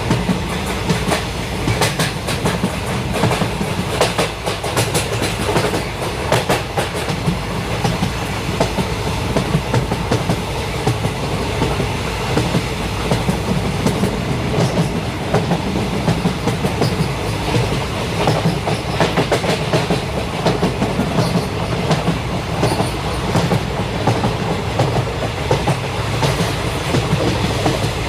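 Jaffar Express passenger train running along the track: a steady low rumble with the clickety-clack of its wheels passing over rail joints.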